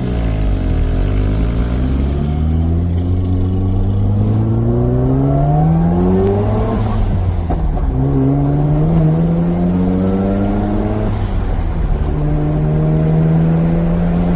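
Mazda RX-7 FC3S's two-rotor 13B rotary engine through a FEED Sonic-R exhaust, heard from inside the cabin while accelerating. The pitch climbs, drops at an upshift about seven seconds in, climbs again, drops at a second upshift near eleven seconds, then holds steady.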